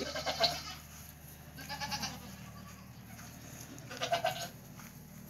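Goats bleating: three short bleats a couple of seconds apart, over a steady low hum.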